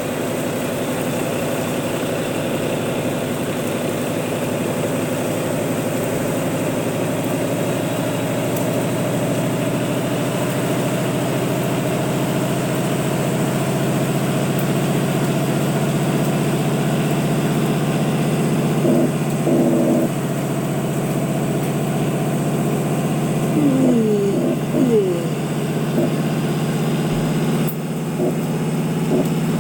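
Volvo truck's diesel engine running steadily at a low, even pitch. A few brief gliding squeaks come about two-thirds of the way through.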